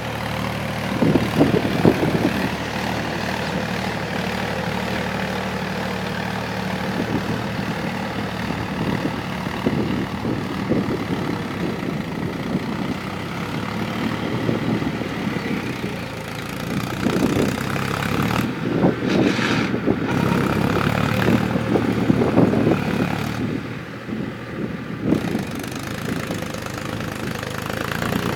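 Tractor engine running steadily, its level dipping and rising a few times.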